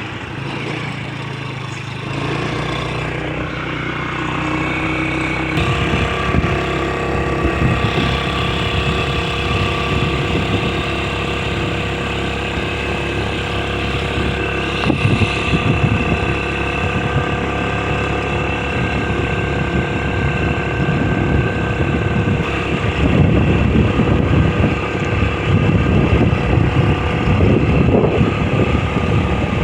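A motor vehicle's engine running steadily while travelling along a road, with a low uneven rumbling that gets heavier over the last few seconds.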